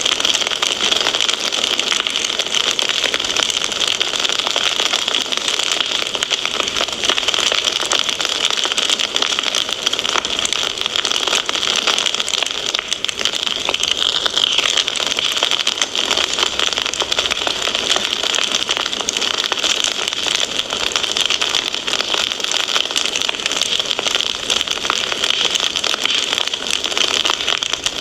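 Fireplace fire crackling steadily: a dense, continuous stream of small pops and snaps over a hiss.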